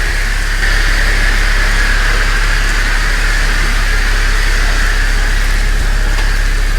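Car wash equipment running steadily: a continuous hiss over a low hum, getting a little louder about half a second in.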